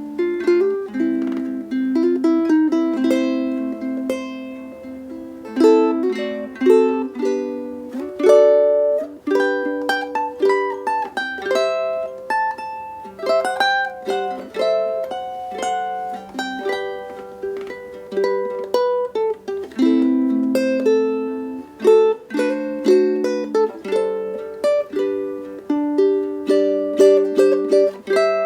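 Solo ukulele played fingerstyle: a melody picked over chords, each plucked note ringing and fading.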